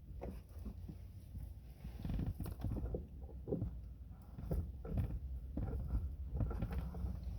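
Irregular handling noises inside a car: cloth rustling and soft knocks and clicks as a curtain is put up over the back window.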